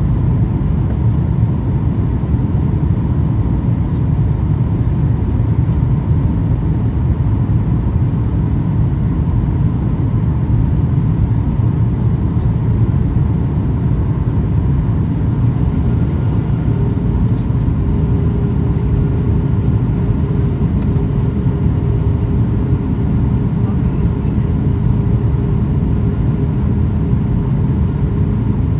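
Steady cabin noise inside a Boeing 737 MAX 8 in flight: a constant low rumble of its CFM LEAP-1B engines and airflow. A faint steady tone joins it a little over halfway through.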